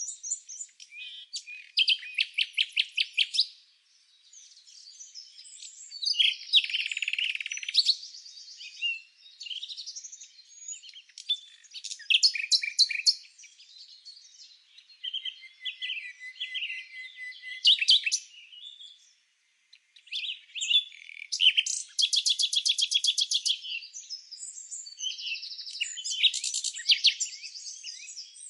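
Songbirds chirping and singing, with fast trills of repeated notes mixed among shorter chirps and whistles. The longest trill runs about a second and a half, a few seconds before the end. There is a brief lull a little past the middle.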